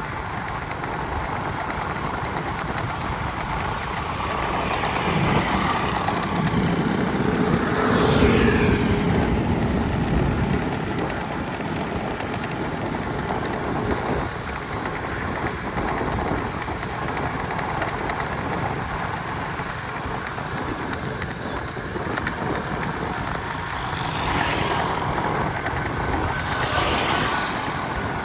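Steady road noise from travelling in a moving vehicle, with other vehicles passing close by: one louder pass about eight seconds in and two more near the end, each swelling and falling away.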